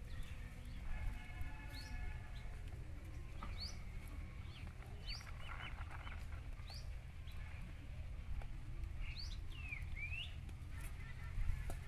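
Small birds giving short, rising chirps, about one every second or two, over a low steady rumble.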